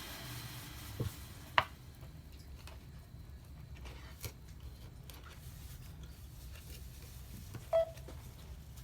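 A few light clicks and taps from small repair tools working on a smartphone, the sharpest about a second and a half in, over a steady low hum.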